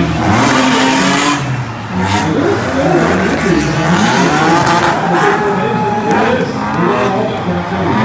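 Several drift cars' engines revving hard, pitch repeatedly climbing and dropping, with tyre screech as the cars slide through a tandem run.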